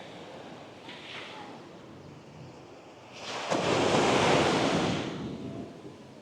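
A wave breaking on the beach about three seconds in, swelling to a loud rush of surf and fading away over the next two seconds.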